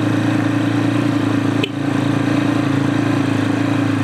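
Tekken 250 motorcycle engine running steadily at low speed on a gravel track, with a brief dip and a click about one and a half seconds in.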